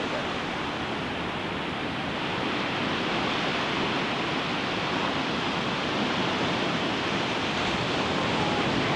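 Ocean surf washing onto a beach, a steady rushing wash that swells slowly louder toward the end.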